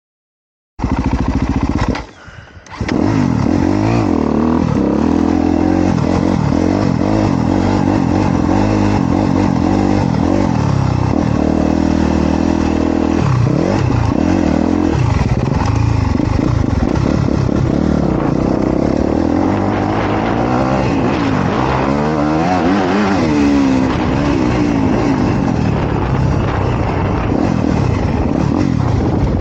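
A 2023 Honda CRF250R's single-cylinder four-stroke engine running hard, its pitch rising and falling repeatedly as it revs up and drops off through the gears. It starts about a second in and briefly drops out about two seconds in.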